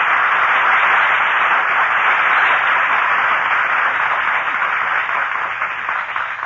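Studio audience applauding, a steady clapping that eases off slightly near the end, heard through an old, narrow-band radio recording.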